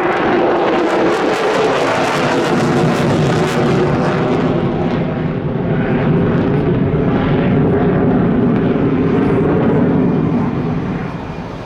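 Boeing F-15QA fighter jet's twin turbofan engines running loud and steady, with a crackly edge in the first few seconds. The sound drops away about ten and a half seconds in.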